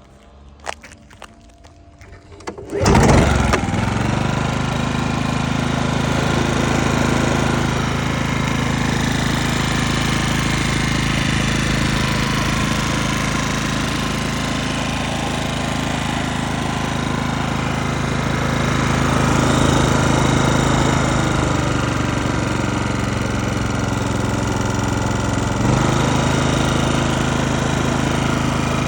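Honda EG25i engine starting: a couple of clicks, then it catches about three seconds in and runs steadily, with a small change in speed near the end. It runs smoothly, the engine in working order.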